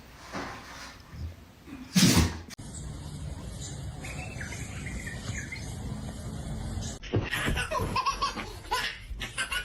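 A person laughing in short choppy bursts through the last few seconds, after one brief loud sound about two seconds in.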